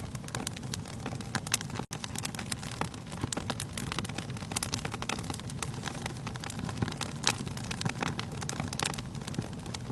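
Wood fire burning in a fireplace: a steady low rumble of the flames with many irregular sharp crackles and pops from the burning logs. The sound drops out for a split second about two seconds in.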